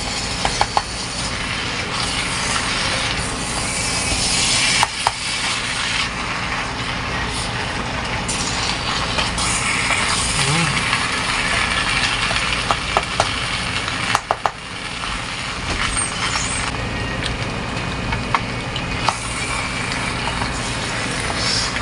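Chicken liver and tofu frying with a steady sizzle in an electric pan, while a spatula stirs and scrapes them, with scattered clicks and knocks of the spatula against the pan.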